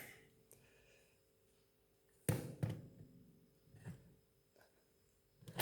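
Mostly quiet, with one sharp knock about two seconds in and a few fainter taps after it as the pedestal fan's motor-and-stand section is handled.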